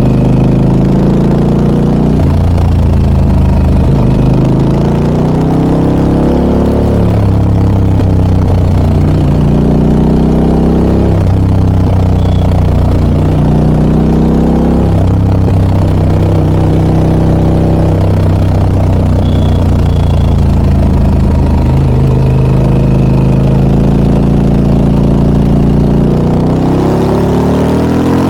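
Harley-Davidson Pan America 1250 Special's V-twin engine running through an aftermarket Scorpion exhaust while riding. The engine note climbs and drops again and again with throttle and gear changes, and starts climbing once more near the end.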